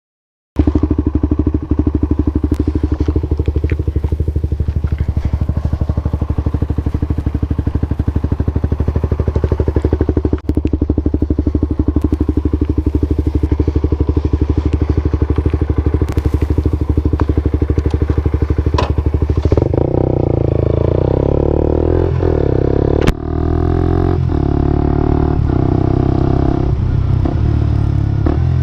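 Suzuki GSX-R125/GSX-S125 single-cylinder 125 cc engine running through an aftermarket slip-on exhaust, idling with a steady fast putter that starts abruptly, then held at a higher engine speed for the last third.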